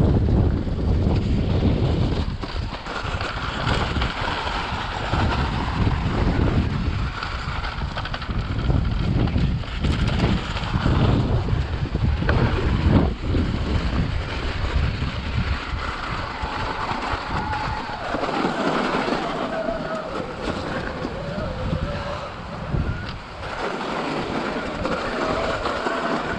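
Wind buffeting the microphone on a moving motorcycle, with the engine running underneath. About eighteen seconds in the gusting eases and a wavering whine comes through.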